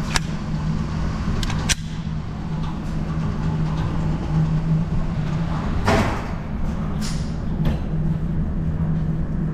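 Steady low droning hum with a handful of sharp knocks and clicks. The strongest, about six seconds in, has a brief ringing tail.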